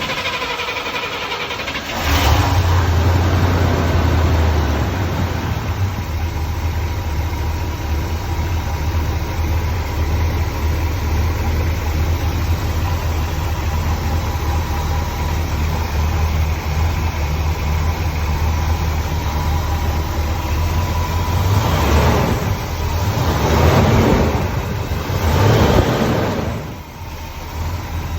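Vehicle engine starting: it cranks briefly, catches about two seconds in and settles into a steady idle. Near the end it revs up three times before dropping back.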